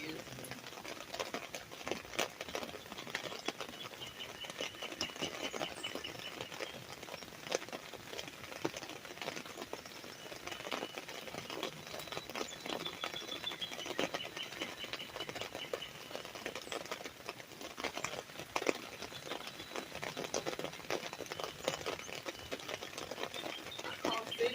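Raindrops pattering on an umbrella: a steady run of irregular taps. A faint high, pulsing trill runs under it through much of the time.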